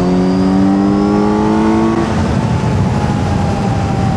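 Kawasaki Z900's inline-four engine pulling with rising pitch for about two seconds, then changing note as it shifts up and settling into a steady, slightly easing run, over wind rush.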